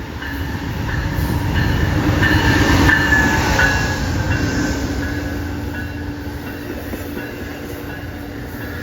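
Amtrak passenger train passing, growing louder to a peak about three seconds in and then slowly fading, with faint steady tones over its rumble.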